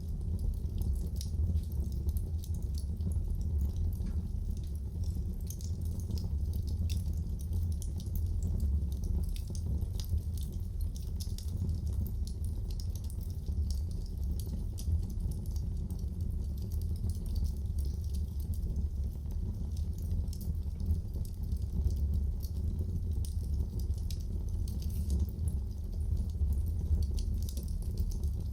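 Wood fire crackling in a fireplace: many small sharp snaps scattered over a steady low rumble.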